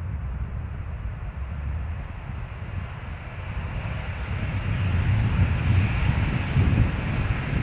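Jet airliner engines growing steadily louder as the aircraft approaches, over a low rumble of wind on the microphone.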